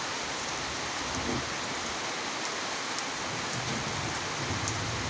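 Heavy rain falling steadily, an even hiss of drops on the ground and leaves.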